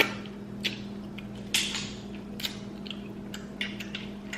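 Clam and mussel shells clicking and cracking as they are handled and eaten, several sharp clicks, the loudest about a second and a half in, with eating mouth sounds. A steady low hum runs underneath.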